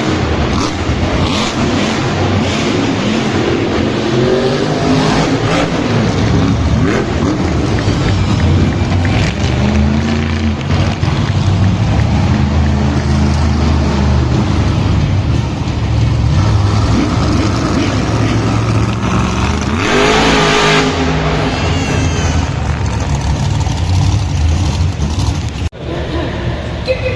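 Monster truck engines running loud during a race, the revs rising and falling again and again. The sound cuts off abruptly near the end.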